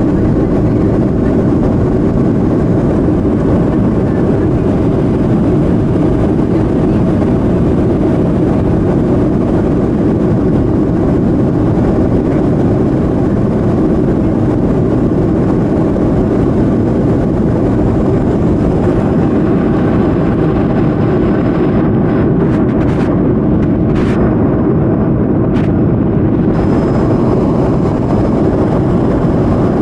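Steady noise of a Boeing 737-200's Pratt & Whitney JT8D turbofan engines and airflow, heavy in the low end and unchanging in level.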